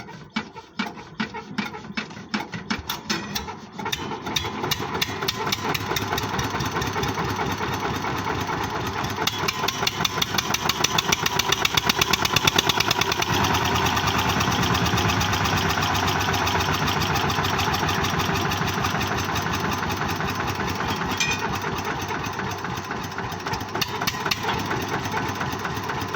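1980 Eicher tractor's diesel engine catching and starting: uneven, separate firing pulses for the first few seconds, then a steady run. It runs louder and harder for a few seconds about ten seconds in, then settles into a steady idle.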